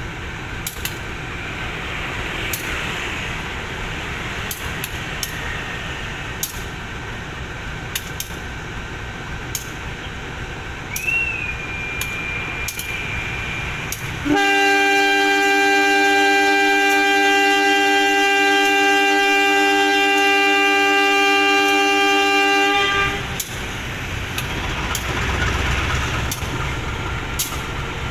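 Locomotive horn sounding one long, steady blast of about eight seconds, starting about halfway in. Before and after it is the steady running rumble of the train.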